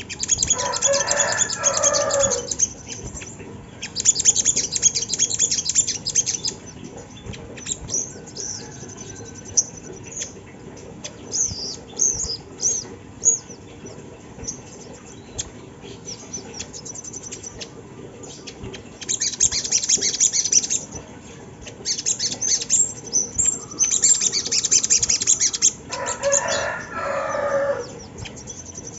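Sogok ontong (little spiderhunter) calling in repeated bursts of rapid, very high-pitched chirps, the fast trilling 'tembakan' of a bird-lure recording. A lower call that falls in pitch sounds twice, once near the start and once near the end.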